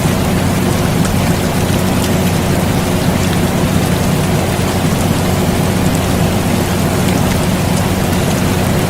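Steady rain mixed with the continuous drone of an air conditioner: an even hiss of rain with faint scattered drop ticks over a low, unchanging hum.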